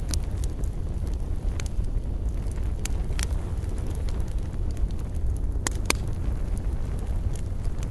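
Wood campfire crackling, with a handful of sharp pops, two of them close together near the end, over a steady low rumble.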